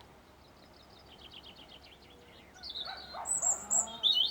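Songbirds singing: a rapid trill of repeated high notes, then sharper chirps in the second half, the loudest near the end. Dogs bark faintly in the distance under the birdsong in the second half.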